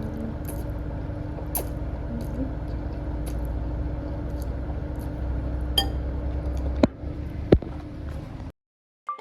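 Steady low kitchen hum with a few sharp clinks of cutlery on a dish, the loudest one near the end, then the sound cuts off abruptly.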